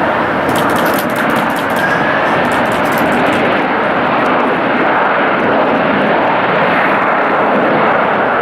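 Jet airliner engines sounding as a steady, loud rushing noise, with a faint gliding whine about two seconds in.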